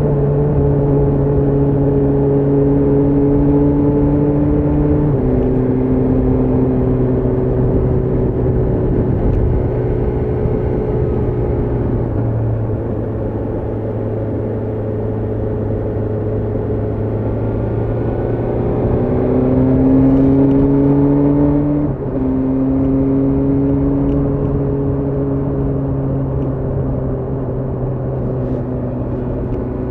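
BMW S1000R's inline four-cylinder engine under way, pulling at steady revs with its pitch dropping suddenly three times as it is shifted up a gear, and rising as it accelerates a little before the last shift and again near the end, over rushing wind and road noise.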